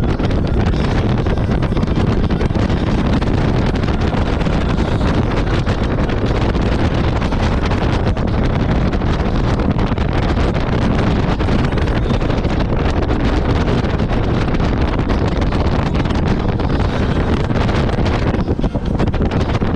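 Heavy, steady wind noise on the microphone at speed, with a jet ski's engine running underneath.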